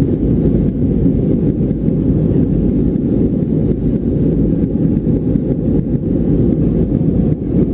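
Steady low rumble of airliner cabin noise: the aircraft's engines and airflow heard from inside the cabin.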